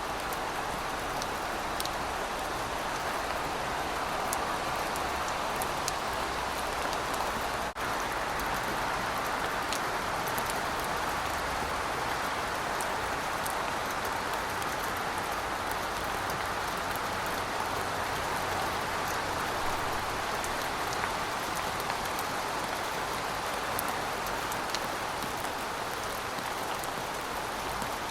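Steady rain falling on pavement: an even hiss with scattered sharp drip ticks, and a momentary dropout about eight seconds in.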